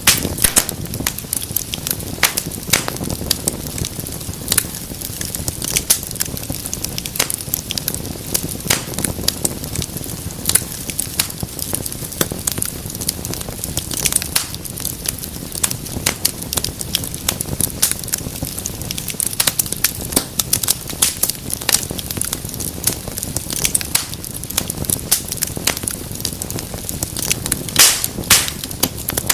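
Wood fire burning in a fireplace, with frequent sharp crackles and pops over a low steady rumble of flame.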